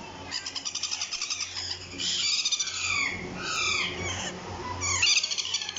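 Sun conure chicks calling: rapid trilled chirps and a string of high, downward-sliding squawks.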